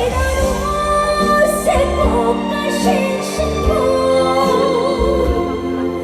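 Live trot song: a woman singing long held notes with wide vibrato over amplified band backing with a steady bass.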